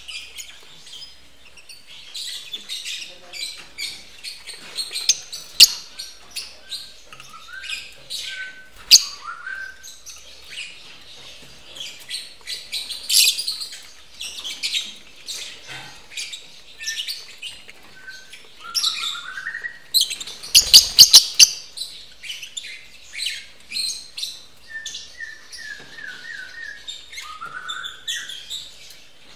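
Lovebirds chattering: a continuous run of rapid, high-pitched chirps and squeaks, with a few short falling calls mixed in. A burst of loud, sharp calls comes about twenty seconds in.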